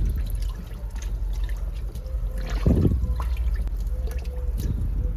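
Water splashing and sloshing in the wash tub of a semi-automatic washing machine as a poncho is pushed down under the water, in irregular bursts.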